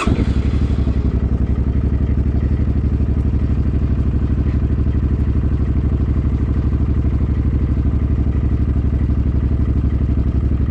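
Suzuki Boulevard M50's 805 cc V-twin engine idling steadily with an even, regular pulse, just after starting.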